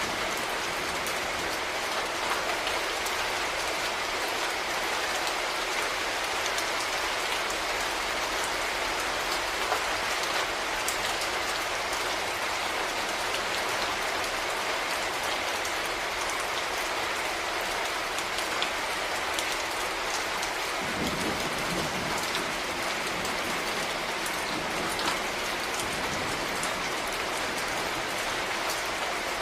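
Steady rain falling on a surface, with many individual drops ticking sharply against the hiss of the downpour. From about twenty seconds in, a low rumble joins it for several seconds.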